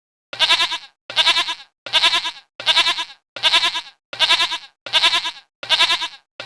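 Livestock bleating: the same short, quavering bleat repeated about eight times at an even pace, roughly three-quarters of a second apart, with silence between calls.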